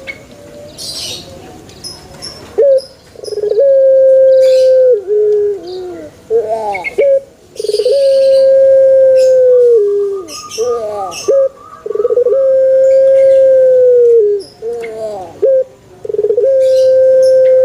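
Male puter dove (domestic Barbary dove) cooing: four long, steady low coos of about two seconds each, with short rising-and-falling notes between them. Other small birds chirp high above it, and a short trill sounds midway.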